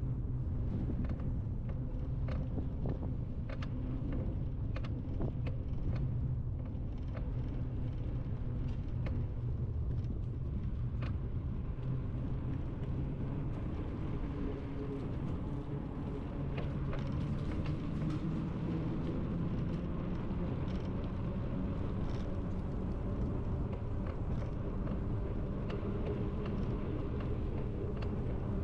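Steady low rumble of wind buffeting the microphone and the rolling noise of a bicycle being ridden, with scattered small clicks and rattles.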